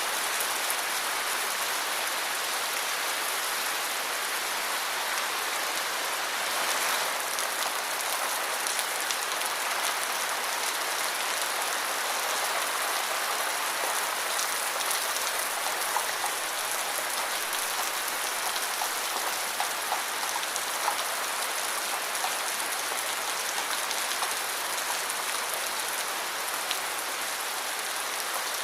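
Steady rain falling, a constant hiss with scattered sharper drops hitting a surface.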